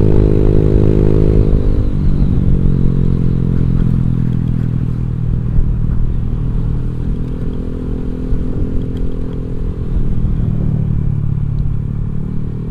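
Motorcycle engine and exhaust running while riding. The engine note drops about two seconds in as the throttle eases, then holds fairly steady, with a slight rise again near the end.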